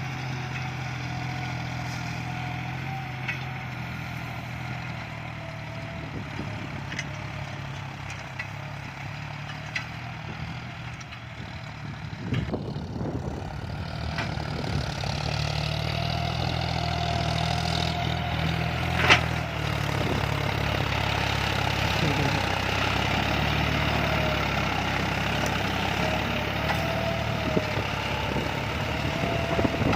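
John Deere tractor diesel engine working steadily under load while pulling a six-disc plough in 4th gear, with a wavering whine over the engine note. The engine grows louder about twelve seconds in, and there is one sharp click about nineteen seconds in.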